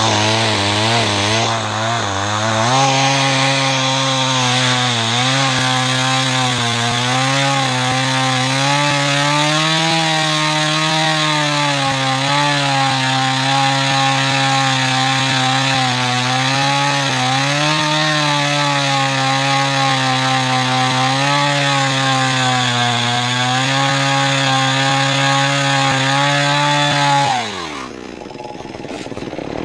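A Stihl two-stroke chainsaw runs at full throttle through wood, its pitch wavering under load for about 25 seconds. Near the end it drops away as the throttle is released, then it is blipped up a couple of times.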